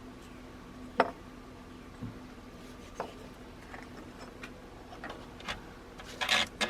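A few light clicks and taps, roughly a second apart, from handling the gauge wiring while feeding it through the truck's firewall, followed by a short rustling scrape near the end.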